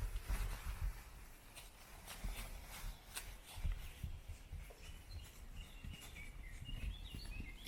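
Hutsul horses grazing and stepping about on pasture: scattered soft clicks and footfalls over a low rumble. A small bird twitters near the end.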